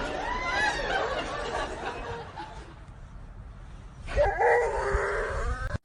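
People laughing, in two spells: the first fades after about two seconds, and a louder one starts about four seconds in and cuts off suddenly at a clip change.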